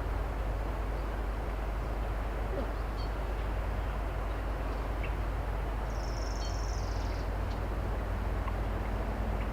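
Excavator engine running steadily down the road, a low drone that goes on throughout. About six seconds in, a bird gives a single high, thin call lasting about a second.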